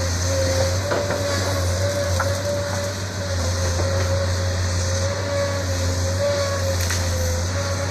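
Isuzu 6BG1 six-cylinder diesel of a Sunward SWE210 excavator running steadily, with a steady whine wavering slightly in pitch over the engine's low hum and a few faint knocks.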